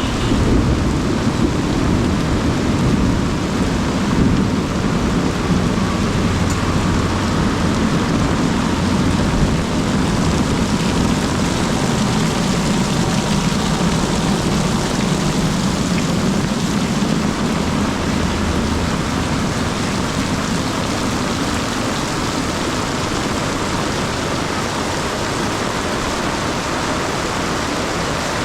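Heavy tropical downpour: a dense, steady hiss of pouring rain, with a low rumble underneath that eases off after about twenty seconds.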